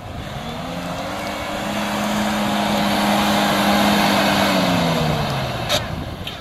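Suzuki Jimny's engine revving hard under load as it climbs a steep off-road slope: the revs rise, hold high for a couple of seconds, then drop away. A single sharp knock comes near the end.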